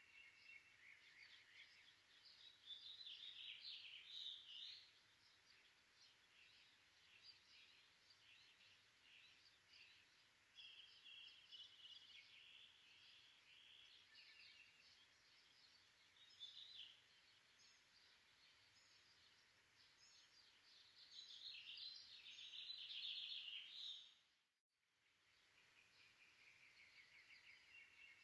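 Faint bird chirps and rapid trills from several birds, coming and going in short phrases, with a brief dropout in the audio a few seconds before the end.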